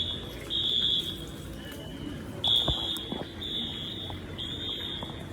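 Electronic alarm beeping a high-pitched tone about once a second, each beep lasting over half a second, with a fainter, slightly lower beep now and then.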